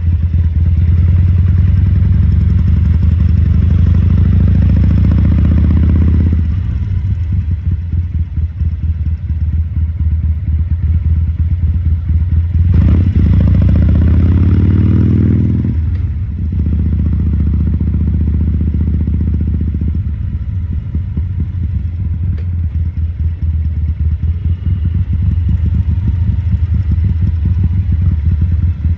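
2014 Harley-Davidson Sportster XL1200C's air-cooled 1200 cc V-twin running. It is throttled up twice, rising in pitch and then dropping off sharply, once at the start and again about 13 seconds in. In between and afterwards it runs at low revs with an uneven beat.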